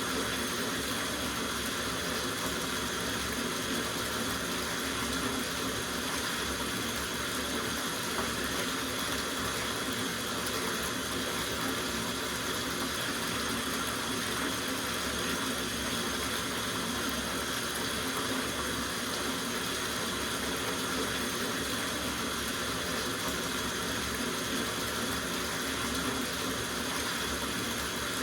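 Tap water running steadily into a soaking bathtub, an even rushing splash that holds unchanged throughout.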